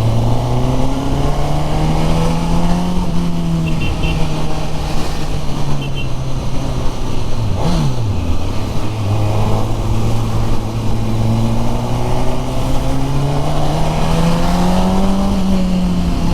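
Suzuki Katana's K5-derived inline-four engine running under way, its pitch climbing gently as the bike accelerates. About eight seconds in the revs flick up and then drop sharply, as at a gear change, before climbing again near the end.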